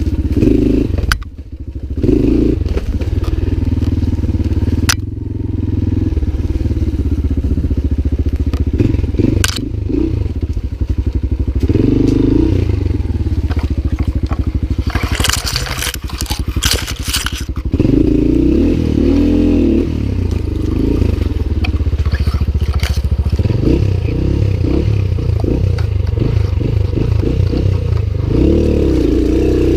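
Lifan 200GY-5 enduro motorcycle's single-cylinder engine running under a rider, revving up and down over rough ground. A few sharp knocks and clatter come through, with a rush of rough noise about halfway through.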